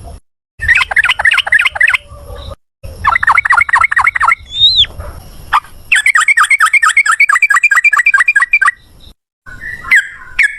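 Yellow-vented bulbul (trucukan) singing its rapid 'ropel' song: loud runs of quick bubbly notes, about six a second, in several bursts with short breaks. The longest run starts about six seconds in, with single rising whistles between the bursts.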